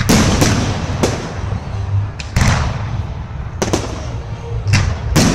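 Fireworks bursting: a string of about eight sharp bangs at uneven intervals, with crackling in between.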